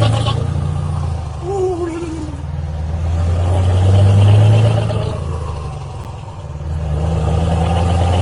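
A vehicle engine running, a low drone that swells and fades, loudest about four seconds in and again near the end.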